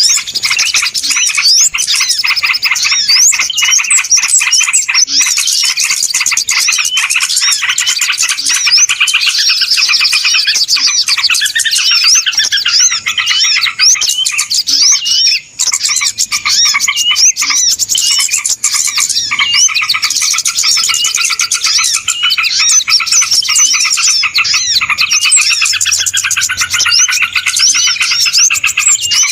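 A dense chorus of many small birds chirping and twittering at once, non-stop, from a bird-lure (pikat) recording meant to draw birds in. It breaks off very briefly about halfway through.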